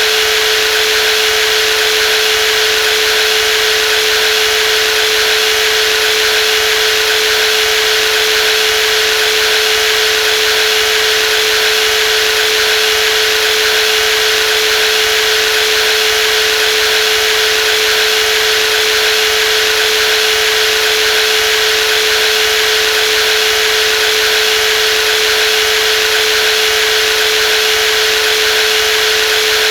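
Brushless jigsaw running steadily without letting up: a constant mid-pitched whine with a dense hiss above it.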